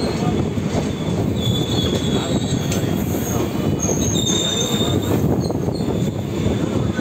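Indian Railways passenger coaches rolling past close by: a steady rumble of wheels on the rails, with thin, high wheel squeals coming and going, clearest about a second and a half in and again at about four seconds.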